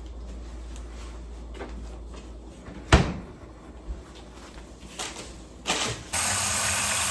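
Kitchen handling noises: one sharp knock about three seconds in and a couple of lighter clicks, then a loud, steady rushing sound that starts abruptly near the end.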